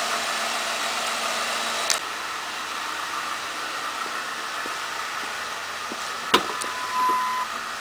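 2010 Ford Ranger's 2.3-litre inline-four idling with the hood open, heard as a steady whooshing hiss. About two seconds in there is a click and the sound drops a little. Near the end comes a sharp click and a short steady tone.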